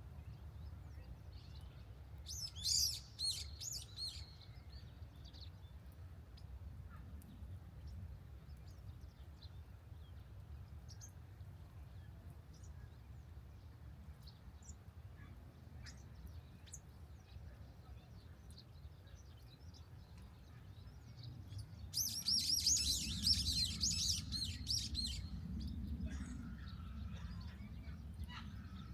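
Birds chirping: a short burst of quick high notes about three seconds in, then a longer, louder bout of rapid chirps in the last third, over a steady low rumble.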